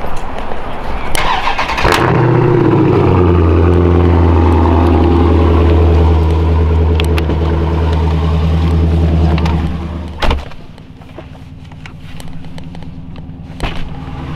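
Dodge Challenger Scat Pack's 6.4-litre HEMI V8, with its mid-muffler and resonator deleted, cranks, fires with a brief flare and settles into a loud, steady, deep idle. About ten seconds in a car door thumps shut, and the idle is then heard quieter and muffled through the cabin.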